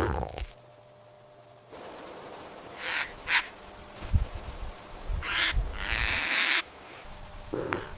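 Animal calls: a few short, harsh, breathy bursts, the longest about a second near the middle.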